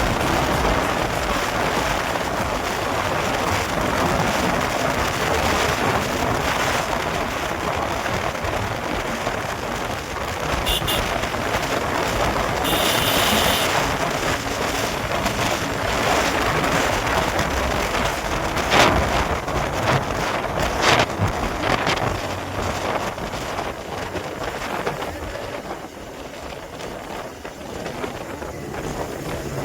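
Motorcycle on the move with heavy wind noise on the microphone. There are two sharp knocks about two-thirds of the way through, and the noise eases near the end.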